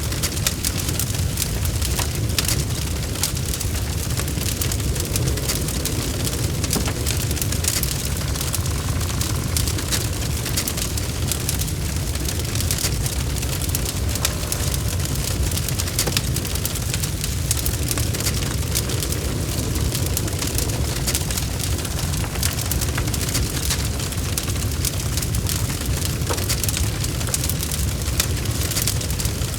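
Log fire burning in a fireplace: a steady low rumble of flames with frequent sharp crackles and pops from the wood.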